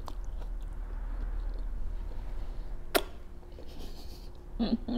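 Close-miked eating: food being chewed with the mouth closed, with small mouth clicks, one sharp click about three seconds in, and a short hummed "mm" near the end.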